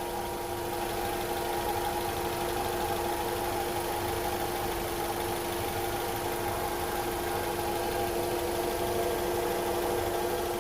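First-generation Honda CR-V's four-cylinder engine idling steadily, with a steady hum and several constant whining tones over it.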